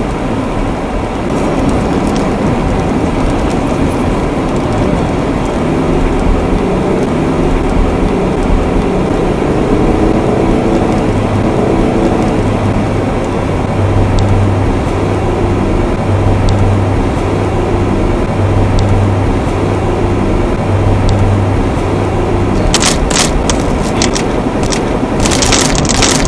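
Car in a heavy rainstorm: a steady rush of rain and road noise, with a low engine hum coming in from about six seconds and a few sharp clicks near the end.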